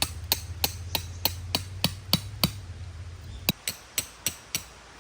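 Hammer driving a tent peg into the ground: quick, even strikes, about three a second, each with a short ringing clink. About two and a half seconds in there is a pause of a second, then the strikes carry on.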